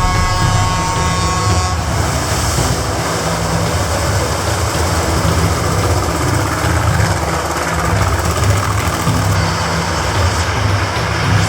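Off-road rally truck engine running loud under load, with a dense rushing noise. A steady chord of pitched tones holds for about the first two seconds and then stops.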